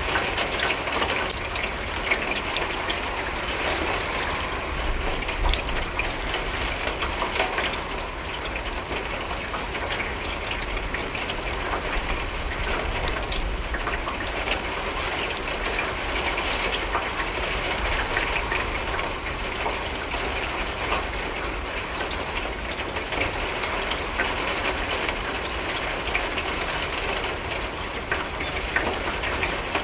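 Steady rain pattering on a window pane: a dense even hiss of drops with fine ticks of individual drops and a low rumble beneath.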